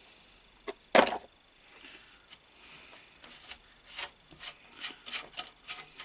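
Workshop handling sounds from taking apart a bench grinder's die-cast housing. A single sharp knock comes about a second in, with scraping and rubbing, then a run of small clicks and taps near the end.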